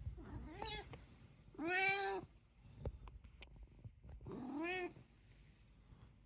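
Domestic cat meowing three times, the middle meow the longest and loudest, with a few soft clicks between the calls.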